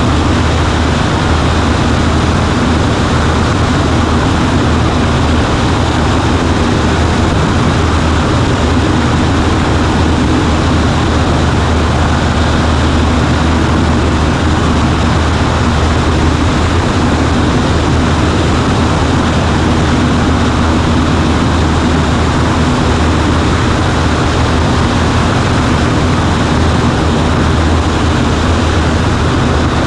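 Cessna 140A's piston engine and propeller running steadily at a constant power setting, a loud unbroken drone with no change in pitch.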